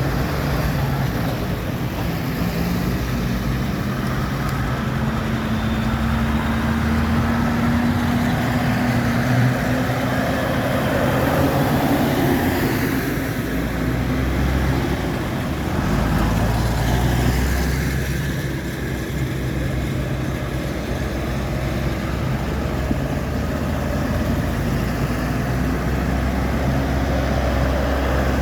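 Tractor and other vehicle engines running as they pass one after another, the engine notes rising and fading as each goes by.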